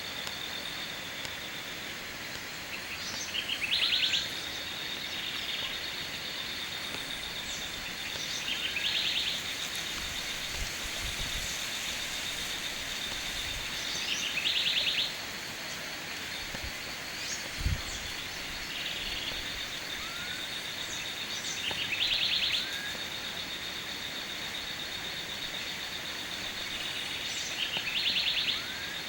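Tropical forest insects: a continuous high-pitched drone, broken about every six seconds by a louder, rapid pulsing call lasting about a second, with scattered short chirps over an even background hiss.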